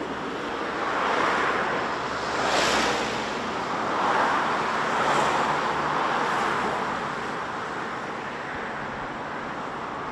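Highway traffic passing close by: tyre and road noise swells and fades as several vehicles go by one after another.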